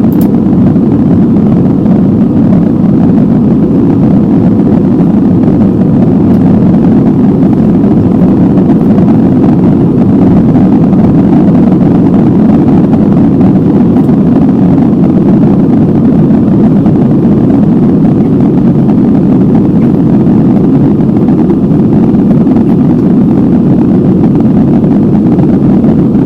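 Airbus A320neo's CFM LEAP-1A jet engines and airflow at takeoff, heard inside the passenger cabin as a steady, loud, deep roar.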